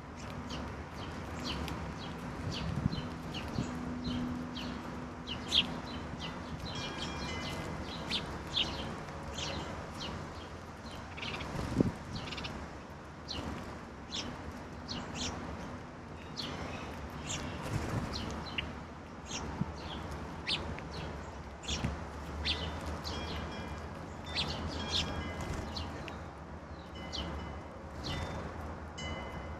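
Several songbirds calling in short, repeated chirps, with a few sharp knocks standing out now and then.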